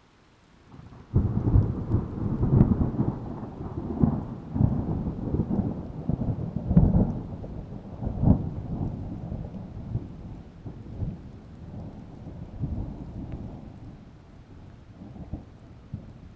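A peal of thunder that breaks suddenly about a second in, rolls with several sharp cracks over the next seven seconds, then rumbles slowly away.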